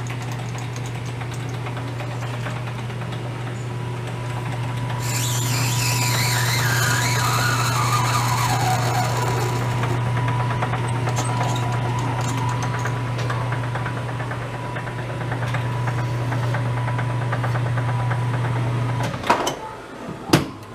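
Metal lathe running with a steady motor hum that stops with a click about 19 s in, followed by a couple of knocks. About five seconds in, the cutting tool bites into brass for about five seconds, a harsh cutting noise carrying a whistle that falls steadily in pitch.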